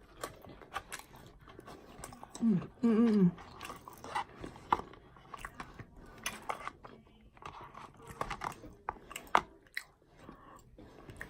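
A person chewing and biting fast food close to the microphone, with wet mouth smacks and small crunches. About two and a half seconds in, a short two-note hummed "mm-mm" of enjoyment.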